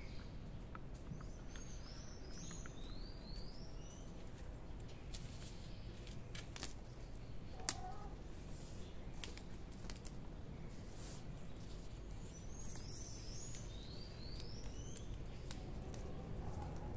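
A small bird chirping: a run of quick, rising chirps about two seconds in and again about thirteen seconds in, over a faint steady background noise with a few light clicks in between.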